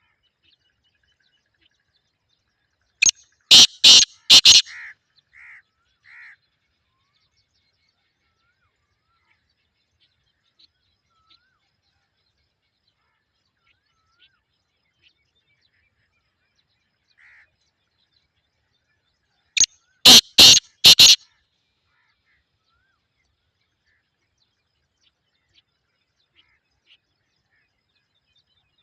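Black francolin calling twice, about sixteen seconds apart. Each call is a quick run of four or five loud notes, the first trailing off into a few softer notes.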